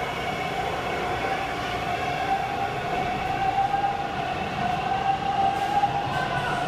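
Toronto subway T1 train running at the platform, its motors giving a steady whine that rises slightly in pitch, over the rumble of the cars.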